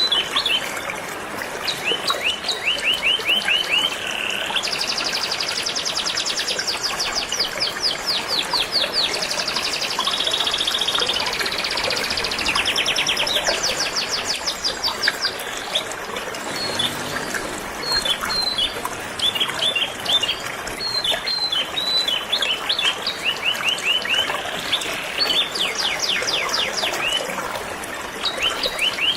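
Canaries singing in rapid trills and chirps throughout, over the steady rush of a flowing river.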